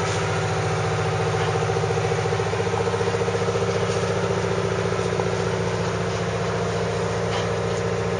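A steady, engine-like mechanical drone, even in level and pitch.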